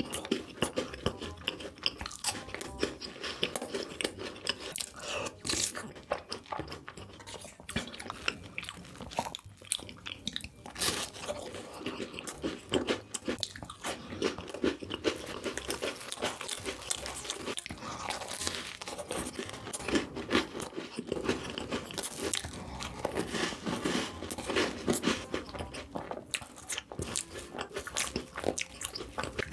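Close-miked crunching, biting and chewing of chocolate treats, a dense run of sharp crunches that keeps going without a break.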